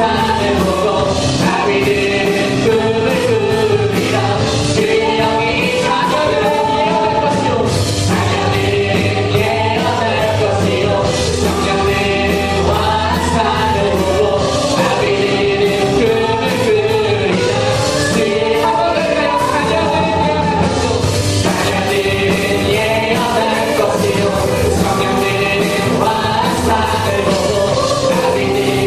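Worship song sung by a group of voices with band accompaniment and a steady drum beat.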